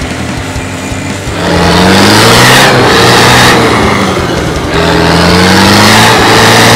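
Off-road 4x4's engine revving hard twice, the pitch climbing and falling back each time, starting loud about a second in.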